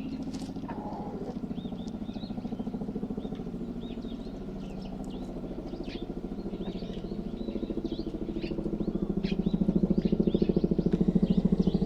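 Low, rapidly pulsing drone of an aircraft passing overhead, growing louder toward the end, with small birds chirping.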